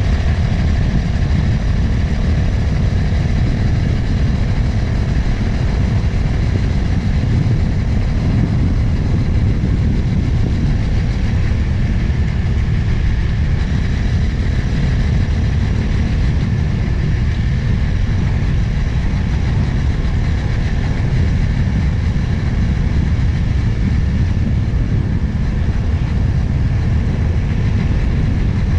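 Motorcycle ridden at steady speed on an open road: wind rumble on the helmet-mounted microphone dominates, with the engine running steadily underneath.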